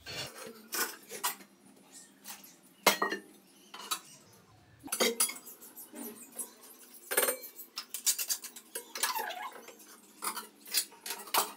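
Metal pots, lids and utensils clinking and clattering, a string of irregular sharp knocks with the loudest about three seconds in and another burst around seven seconds in.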